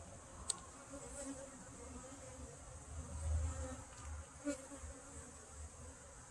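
Honeybees buzzing around an open hive, a faint wavering hum, with two light clicks about half a second and four and a half seconds in and a brief low rumble near the middle.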